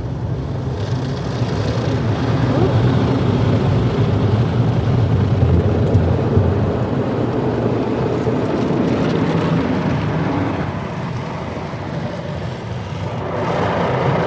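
Automatic car wash cloth strips and brushes scrubbing and slapping over the car with water spray and the wash machinery running, heard from inside the car as a steady loud rumble. It swells through the middle, eases a little near the end, then rises again.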